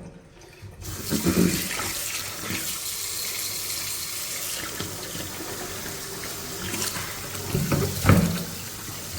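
Water running steadily from a faucet into a kitchen sink, with a few clunks about a second in and again near the end.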